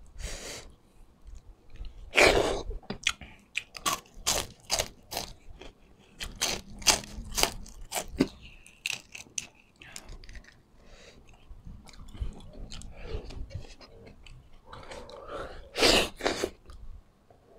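A person chewing and crunching food up close, in quick irregular crunches that are loudest about two seconds in and again near the end.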